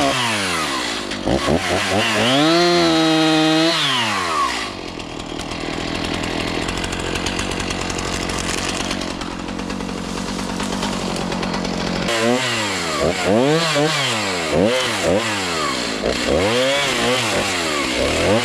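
Chainsaw revving up and down in repeated throttle blips, with a lower, steadier stretch in the middle while it cuts into wood.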